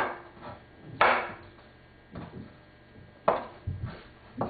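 Kitchen knife cutting fresh chilies on a cutting board: about six separate, irregularly spaced chops of the blade onto the board as the stalks are cut off.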